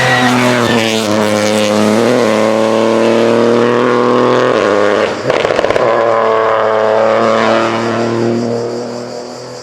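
Rally car engine running hard on a stage, its note broken briefly about two seconds in and again around five seconds in, with a rapid rattling burst at the second break, then fading near the end as the car moves away.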